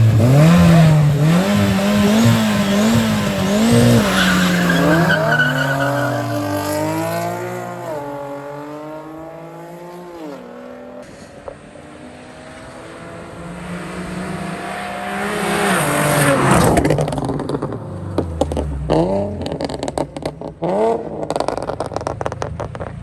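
Race cars at a drag strip revving high, then accelerating away through several gear changes, their engine note fading into the distance. About fifteen seconds in, a car comes close and passes, its engine pitch dropping as it goes by.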